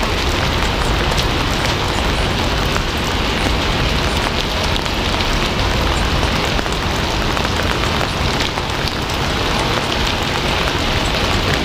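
Steady heavy rain falling on a surface, a dense even hiss with many small drop ticks.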